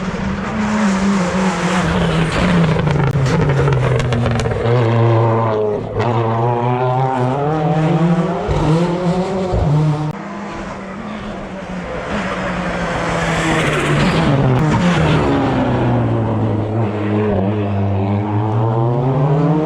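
Hill climb race car engine driven hard, its pitch repeatedly rising under acceleration and falling with each gear change and lift off the throttle, with a few short sharp cracks.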